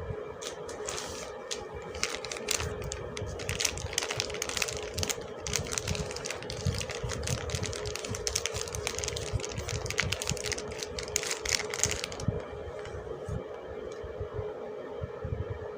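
Soap packaging being unwrapped by hand: dense crinkling and quick clicking that stops about 12 seconds in, over a steady hum.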